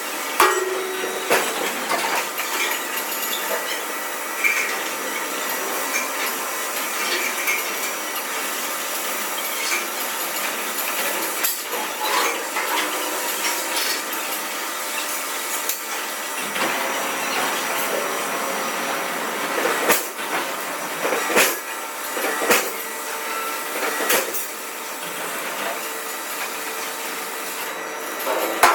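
Steel fabrication workshop noise: a steady hiss with scattered sharp metal knocks, the knocks coming more often in the second half.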